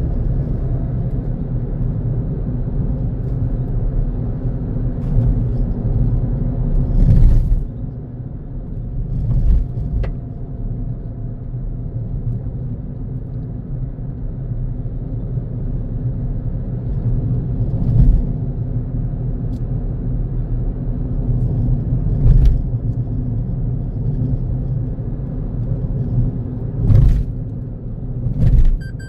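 Car driving along a road: steady low rumble of engine and tyres, broken by about six brief thumps.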